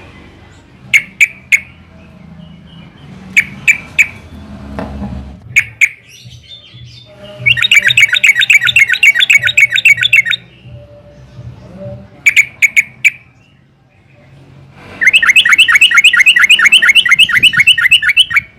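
Yellow-vented bulbul calls: scattered short clusters of two or three sharp notes, and twice a long fast run of repeated notes lasting about three seconds each.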